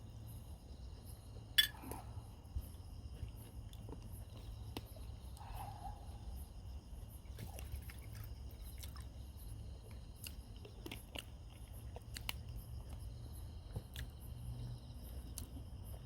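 A person chewing a hamburger, with scattered sharp clicks and crunches, the loudest about a second and a half in. Under it run a steady low hum and a steady high chirring, as of insects.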